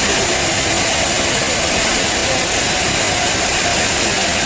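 Machinery engine running steadily under a constant high hiss, with no change in level throughout.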